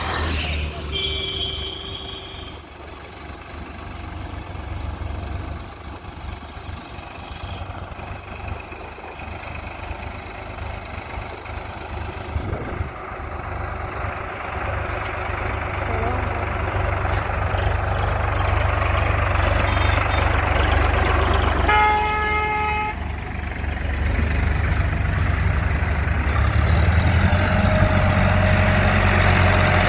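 Tractor diesel engine running steadily under load, getting louder toward the end. A vehicle horn sounds briefly about a second in and again about three-quarters of the way through.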